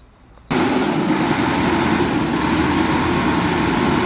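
Mercedes-Benz bus diesel engine running steadily, coming in suddenly about half a second in. It is now starting and running after a loose connection at the engine-management (PLD) module socket was repaired.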